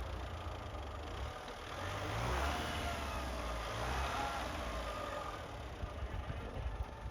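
Mitsubishi L200 pickup's engine revving under load in deep snow, the revs swelling twice before settling.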